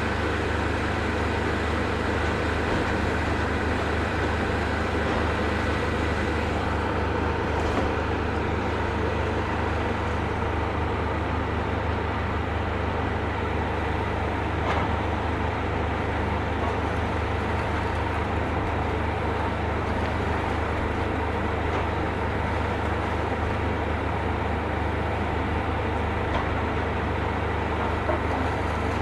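Heavy demolition machine's engine running steadily, with a couple of faint knocks.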